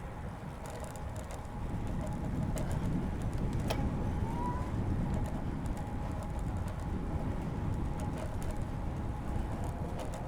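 Steady low rumble of wind and tyres from a bicycle ride, with a bird calling; a short rising call comes about four seconds in.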